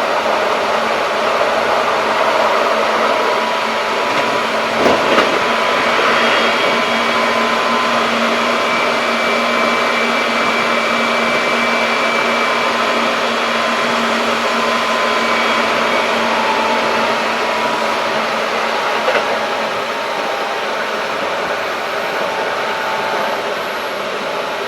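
Keikyu 1500 series field-chopper electric train running at speed: steady rolling and running noise with a few faint steady tones through it. A short knock about five seconds in and another near twenty seconds, after which the noise eases slightly.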